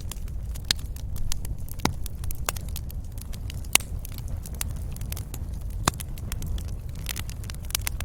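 Wood fire in a fireplace crackling, with irregular sharp pops and snaps over a steady low rumble of the flames; a few pops stand out louder, and the snapping thickens near the end.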